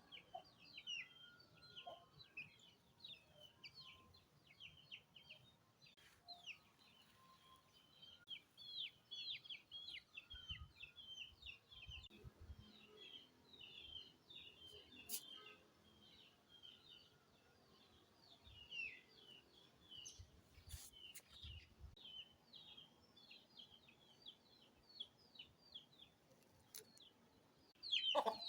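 Birds chirping: a faint, continuous stream of short, high chirps, several a second.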